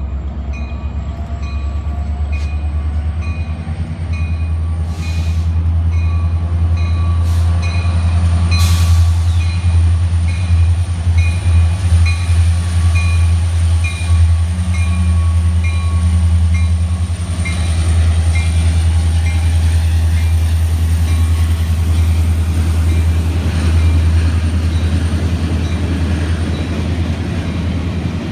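Union Pacific diesel-electric locomotive approaching and passing close by, its engine giving a deep steady rumble that is loudest about halfway through. Its bell rings at an even beat through the first half or so, and freight cars then roll past on the rails.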